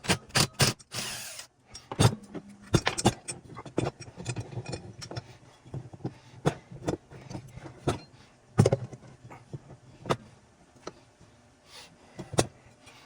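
Metal tools and saw parts being handled on a workbench: sharp clinks, clicks and knocks at irregular intervals, with a short rushing noise about a second in.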